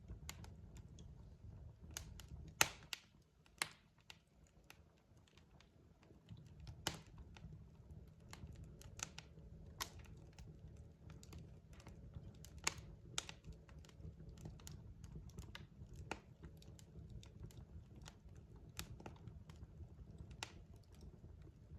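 Logs burning in a fireplace, crackling: irregular sharp pops and snaps over a low, steady rumble of the fire. The loudest snap comes between two and three seconds in.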